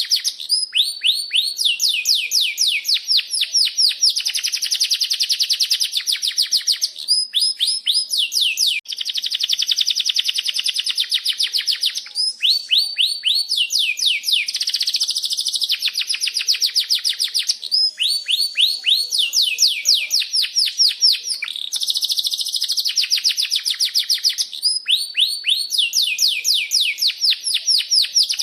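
Domestic canary singing a long, unbroken song of rolling trills. Each phrase is a fast run of high repeated chirps, and the bird switches to a new trill every second or few without pausing.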